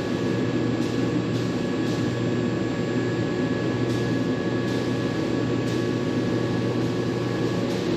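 Steady machine hum: an even low drone with two faint steady whines above it, running without change.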